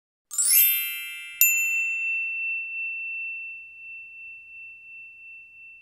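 Logo-sting sound effect: a quick shimmering run of high chimes, then a single bright ding about a second later that rings on and slowly fades away.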